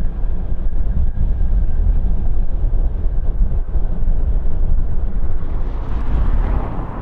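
Jet airliner engine noise: a loud low rumble, with a hiss that swells and fades about six seconds in.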